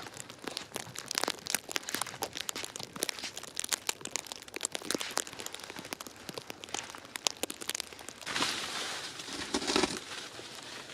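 Plastic wrap crinkling and crackling as it is handled, a dense run of irregular small crackles that grows louder and denser about eight seconds in.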